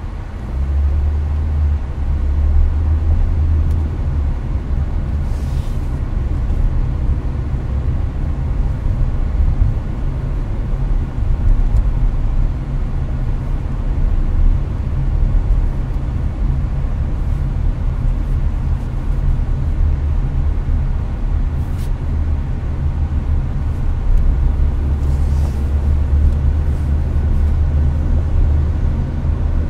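Hyundai Avante cruising on the highway, heard inside the cabin: a steady low road-and-engine rumble with tyre hiss, and the air conditioner blowing.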